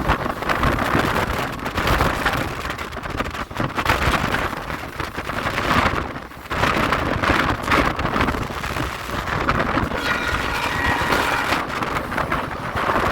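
Passenger train running at speed, heard from on board: wind gusting across the microphone over the rumble of the coaches on the track. About ten seconds in, a faint high squeal of several tones rises over it.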